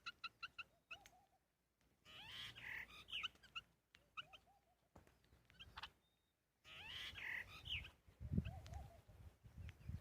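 Birds calling in short chirps and curved, sliding notes, coming in several clusters, with a few low thumps near the end.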